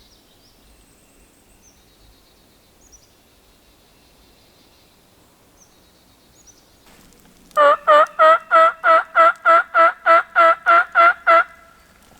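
Turkey call yelping: a fast, even run of about thirteen loud yelps, starting more than halfway through. Faint songbird chirps come before it.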